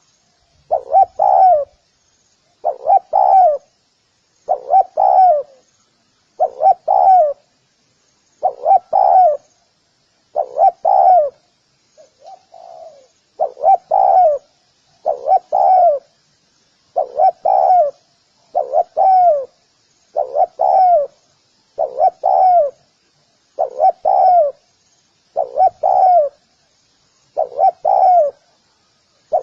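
Spotted dove cooing: a short phrase of two or three notes repeated about every two seconds, with one softer phrase partway through. Faint high chirping runs underneath.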